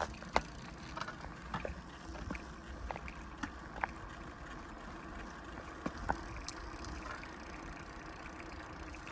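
Bicycle being ridden on a road: a steady low rumble of tyres and wind, with scattered irregular clicks and rattles.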